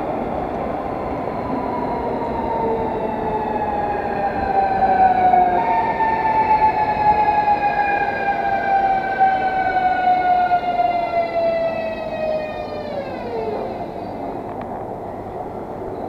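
Electric train braking to a stop: the whine of its traction drive falls slowly in pitch over a rumble of wheels on rail, then drops away quickly near the end as the train halts.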